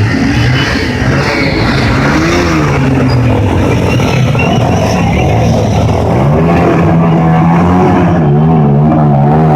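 Motorcycle engine revving, its pitch rising and falling in slow sweeps, then holding steadier and a little louder in the last few seconds.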